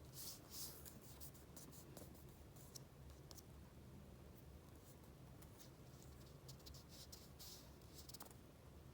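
Faint paper handling: soft rustles and swishes of sheets being slid and turned, with many light ticks as the paper is touched and shifted.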